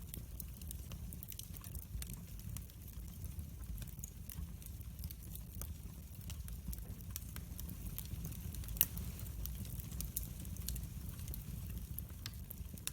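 Wood fire burning in a fireplace: a steady low rumble of the flames with frequent small crackles and pops, and one sharper pop a little under nine seconds in.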